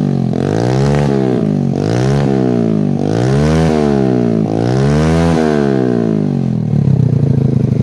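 Single-cylinder four-stroke Hero Splendor motorcycle engine breathing through an aftermarket Akrapovic exhaust, revved up and let fall back four times in a row, then settling into a fast, rapidly pulsing idle near the end.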